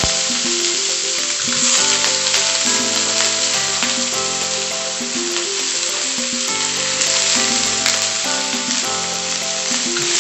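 Chopped bok choy sizzling in hot oil in a steel wok as a metal spatula stirs it, a steady hiss throughout. Background music plays under it.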